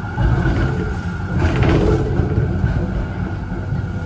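Z3 class tram heard from inside, with a steady low rumble of its running gear. A brief hissing burst about one and a half seconds in is the loudest moment.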